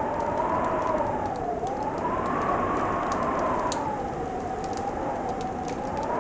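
Howling wind with a wavering whistle that slowly rises and falls, over a steady rush of noise and a crackling fire that gives off scattered sharp pops.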